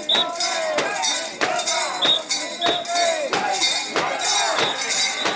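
The bells hung on a carried mikoshi (portable shrine) jangle in a steady rhythm of about one and a half clashes a second as the shrine is bounced, with the bearers' voices chanting along.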